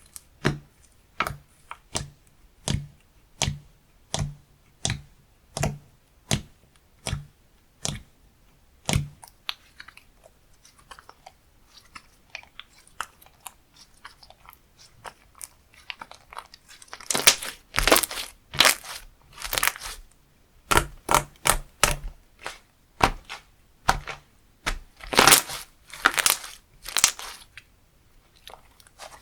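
Slime being pressed and squished by hand, giving a sharp click or pop with each press, about three every two seconds, for the first several seconds. After a quieter stretch, louder bunched crackly crunches come near the end.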